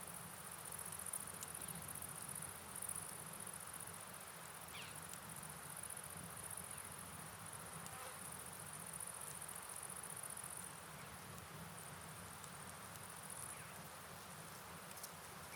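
Steady night rain and flowing river water as a soft even hiss, with a continuous high insect chirring, like crickets, over it, fading briefly about two-thirds of the way through. A few faint drip-like ticks.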